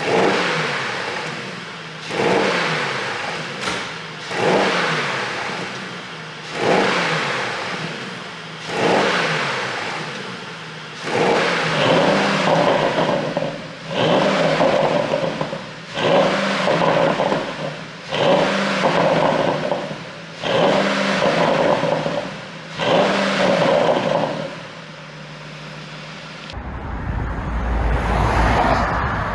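Porsche 971 Panamera GTS twin-turbo V8, tuned for exhaust pops, blipped on the throttle about every two seconds, each rev rising sharply and falling away with crackles on the overrun. Near the end it settles to idle, then a deep low rumble takes over.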